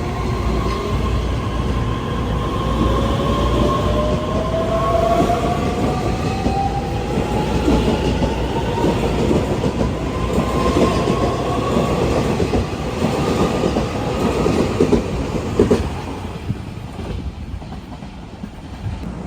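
Taiwan Railway train running by, its wheels clattering over the rail joints, with a whine that rises slowly in pitch. The sound drops away a few seconds before the end.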